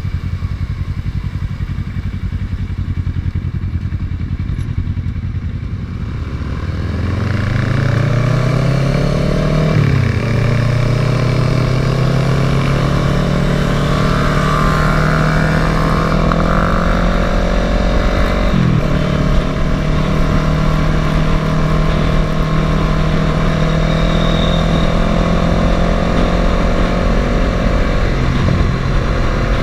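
Kawasaki ER-6n's parallel-twin engine pulling away and accelerating, its pitch rising through the gears with upshifts about ten seconds in and again near nineteen seconds, then holding a steady cruise. The sound is muffled through a sealed waterproof camera housing.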